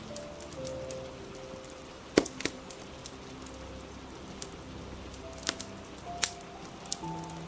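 Wood fire crackling with a handful of sharp pops, the loudest about two seconds in, over a steady hiss of rain. Soft held music notes sound faintly underneath.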